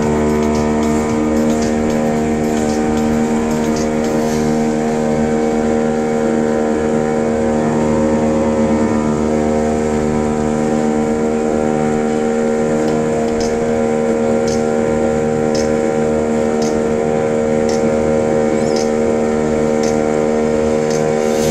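Motorboat engine running steadily at speed, an even, unchanging drone.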